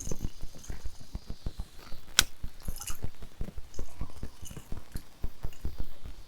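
A freshly landed channel catfish thrashing while being unhooked: a rapid, irregular run of dull thumps and slaps, with one sharp click about two seconds in.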